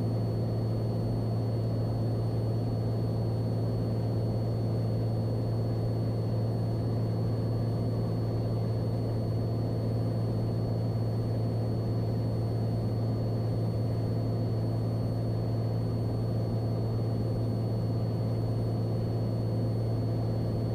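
Cessna 182's piston engine and propeller droning steadily in climb, heard from inside the cabin, with a faint steady high whine over it.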